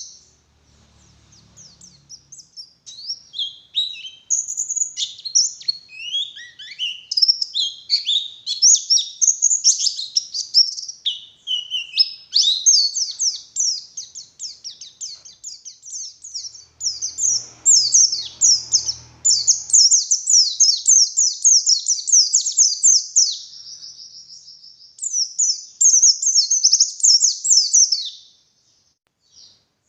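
White-eye (pleci) singing in full voice: a fast, high twittering song of rapid chirped and trilled phrases, almost unbroken, with a brief pause near the end.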